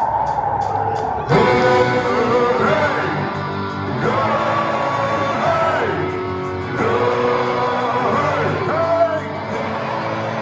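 Live rock band playing in a large hall: electric guitars and drums under a sustained sung melody, with yells from the crowd.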